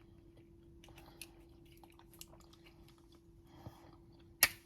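Microwave oven running with a faint steady hum, with a few small ticks and one sharp click near the end.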